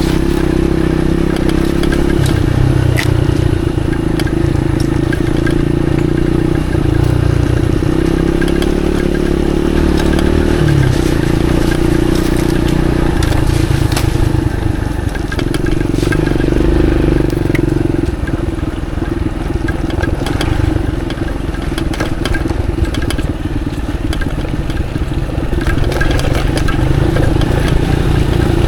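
Motorcycle engine running at a steady low speed on a muddy dirt track, its pitch shifting a little now and then, with scattered clicks and rattles.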